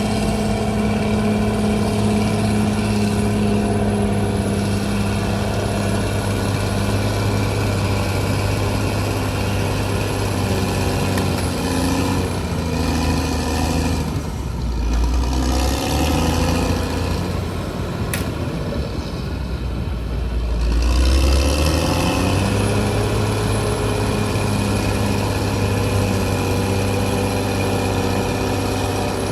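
CAT D6R XL bulldozer's diesel engine running steadily. About halfway through, its pitch dips and rises and a heavier low rumble comes in, with one sharp click in the middle, before it settles back to a steady note.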